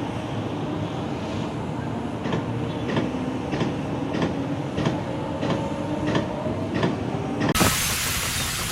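Rail vehicle rolling with a steady rumble and a faint held tone, and a clack about every half second or so. Near the end a loud rush of noise takes over.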